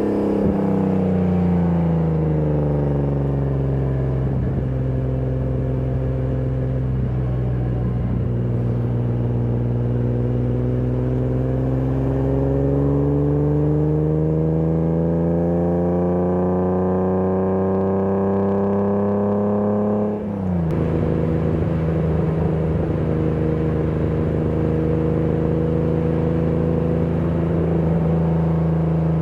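BMW E30 323i's 2.3-litre straight-six heard on board while driving. The engine note falls, holds for a few seconds, then climbs steadily under acceleration. About two-thirds of the way in it drops suddenly at an upshift and then runs at a steady pitch.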